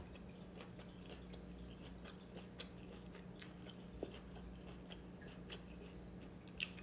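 Faint chewing of a mouthful of food, with a few small clicks, the sharpest near the end, over a steady low hum.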